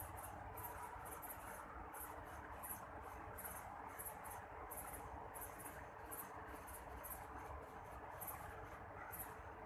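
Night insects chirping in short, high-pitched pulses about three a second, over a steady faint hiss.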